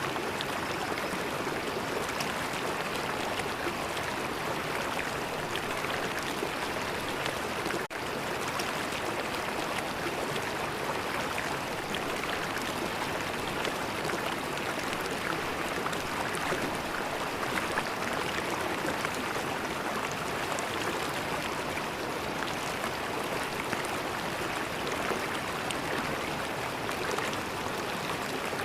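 River water flowing with a steady rushing and small splashes throughout. There is a brief dropout about eight seconds in.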